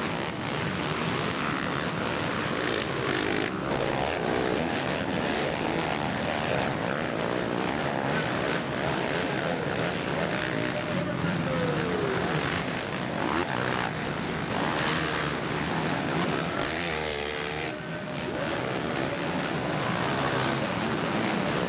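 Several four-stroke motocross bikes racing, their engines revving hard and continuously. The pitch rises and falls as bikes accelerate, shift and pass.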